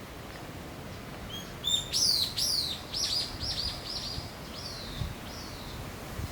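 A small bird singing: a series of quick, high, falling whistled notes starts about a second in, loudest at first and repeating a few times a second before trailing off near the end.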